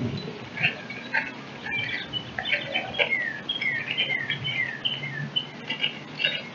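Small songbird chirping: a quick string of high notes, many of them short downward slurs.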